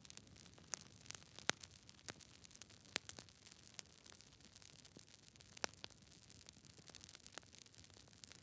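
Campfire crackling: irregular sharp pops and snaps over a soft steady hiss, with louder snaps about three seconds in and again near six seconds.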